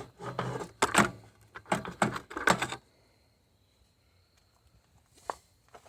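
Hand tools and metal parts clinking and knocking as they are handled, a run of irregular sharp clicks for about three seconds, then one lone click near the end.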